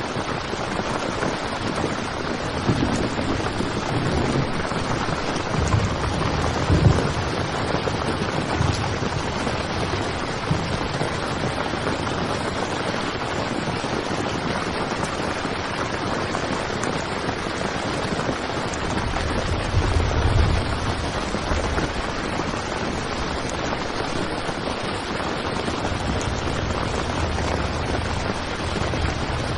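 Heavy rain falling on a tent: a steady, dense hiss. Low rumbles swell up a few seconds in, again about two-thirds of the way through, and near the end.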